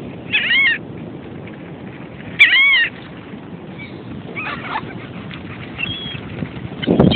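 Seagulls calling: two loud calls about two seconds apart, each about half a second long and rising then falling in pitch, followed by fainter calls.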